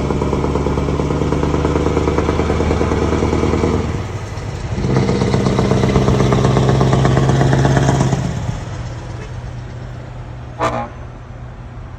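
Scania V8 truck engine running loud under full load, a steady deep note that drops out for under a second about four seconds in and comes back, then fades away from about eight seconds in. A short, sharp high sound is heard near the end.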